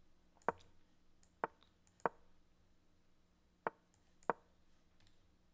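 Five short, sharp clacks at uneven intervals: the move sounds of an online chess game as pieces are played in quick succession.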